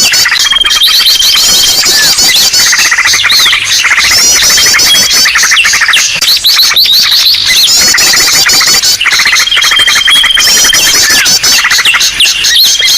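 A dense chorus of many small birds chirping, trilling and whistling over one another, with a held high whistle note now and then: a bird-lure (pikat) recording of noisy, agitated birds, repeating in a loop.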